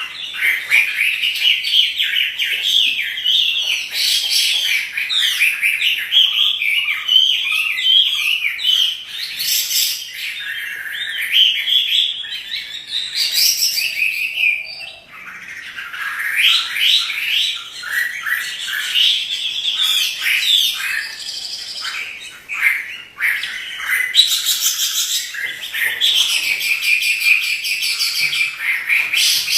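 Chinese hwamei singing continuously, a long run of rapid, varied whistled phrases, with a short break about halfway through.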